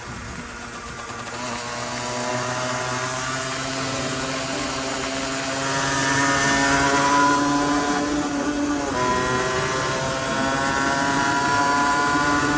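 A Honda NSR single-cylinder two-stroke engine under way, its pitch slowly climbing as it revs. About nine seconds in the pitch breaks and drops slightly, as in a gear change, then it climbs on.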